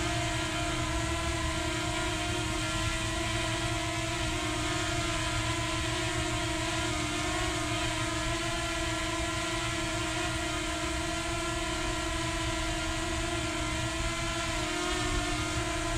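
Potensic Atom mini quadcopter's propellers and motors whining steadily in flight, a buzzing hum whose pitch wavers slightly now and then.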